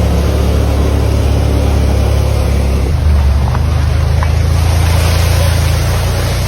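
Vehicle engine running steadily while driving, a low drone with a faint rushing noise over it. Its pitch shifts slightly about three seconds in.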